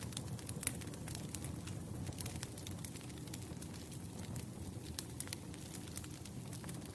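Wood campfire crackling: many sharp, irregular pops and snaps over a steady low rumble of burning logs.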